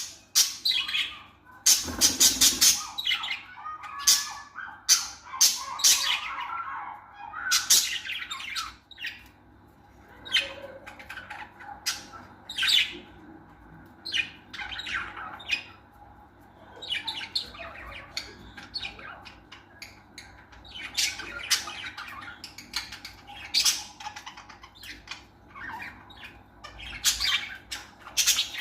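Pet lovebirds squawking and chirping in short, sharp calls at irregular intervals, with a rapid run of calls about two seconds in.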